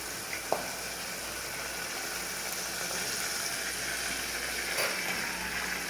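Garlic, pepper, cumin and curry leaves sizzling in hot oil in a pan for rassam, a steady hiss, with one sharp utensil click about half a second in.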